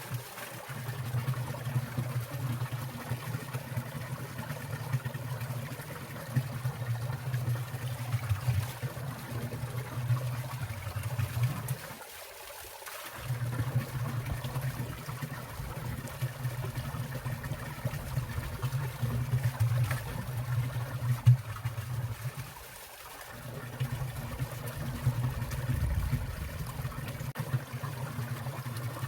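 Water trickling and splashing in a winter mountain stream, a continuous busy burble. The low gurgling drops away briefly twice, about twelve seconds in and again about twenty-three seconds in.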